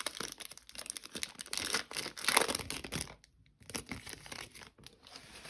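Foil wrapper of a Panini Select football card pack being torn open and crinkled: a run of rustling tears through the first three seconds, loudest around the middle, then fainter rustling as the wrapper and cards are handled.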